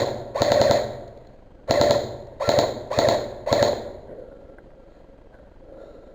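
An airsoft rifle firing a string of short full-auto bursts, a rapid buzzing rattle of shots with a pause after the first burst, then several quick bursts back to back. The firing stops about four seconds in.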